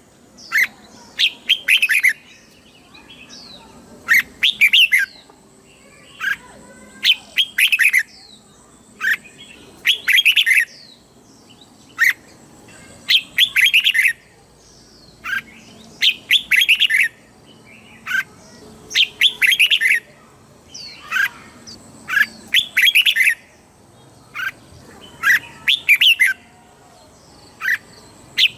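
Red-whiskered bulbul singing: short, bright phrases of a few quick notes each, about one phrase a second, with brief pauses between them.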